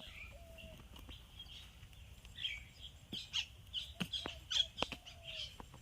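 Birds chirping and calling in a farmyard, many short chirps with a few short steady notes in between, and several sharp clicks.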